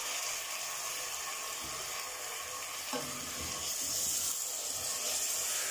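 Chicken pieces frying in oil with onion in a stainless steel pot, a steady sizzle, as freshly added tomato sauce is stirred in with a wooden spoon, with a few faint knocks of the spoon against the pot.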